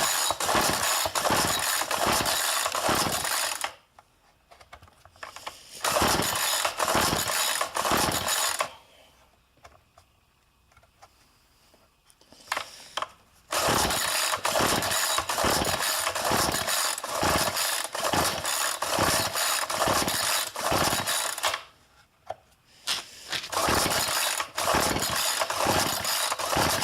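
Recoil pull-starter of a Poulan Pro two-stroke string trimmer being yanked over and over: runs of quick rasping pulls, about one and a half a second, with short pauses between. The cold engine turns over but never fires, so it won't start.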